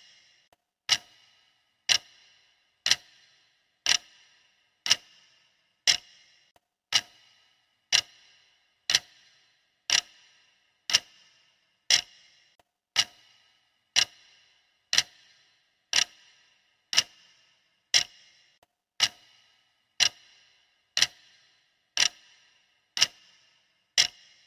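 Clock ticking steadily, one sharp, crisp tick each second.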